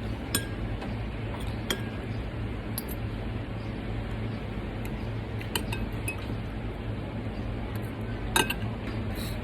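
Cutlery clinking against plates and dishes during a meal: a handful of scattered light clinks, the sharpest near the end, over a steady low background hum.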